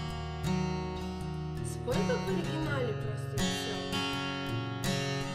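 Acoustic guitar strumming chords in a steady rhythm, with a stronger stroke about every second and a half, as the song's introduction.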